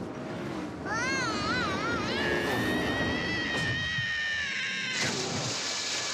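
Cartoon sound effect: a whistle-like tone that wavers up and down, then settles into a long held note, followed about five seconds in by a loud hissing rush.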